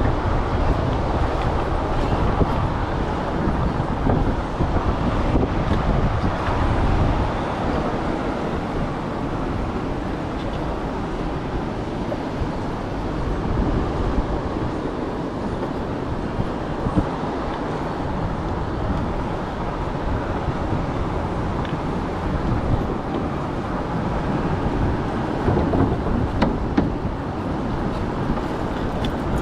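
Steady wind rumble and buffeting on a chest-mounted GoPro's microphone while riding a fat-tyre e-bike.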